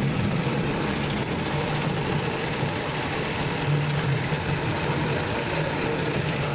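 Toyota car engine idling steadily.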